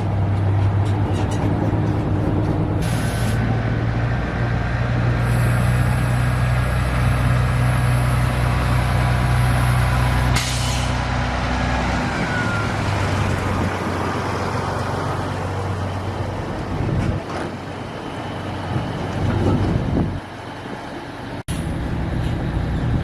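Truck engine running steadily, with short hisses of released air about 3 seconds and 10 seconds in, typical of air brakes. About 12 seconds in the steady engine note drops away and the sound becomes rougher and more uneven.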